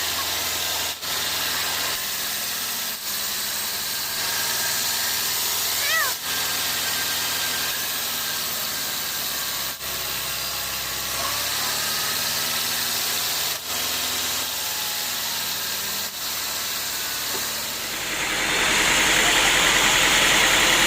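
Sawmill machinery running: a steady engine hum under a broad hiss, with a brief high squeal about six seconds in. Near the end the hiss grows louder and brighter.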